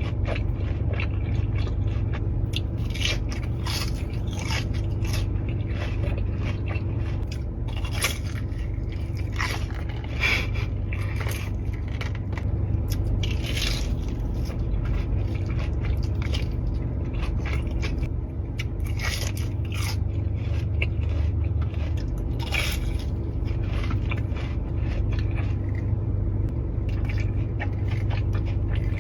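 Close-miked eating sounds: biting and chewing cheesy food, with many short crunches and crackles scattered throughout over a steady low hum.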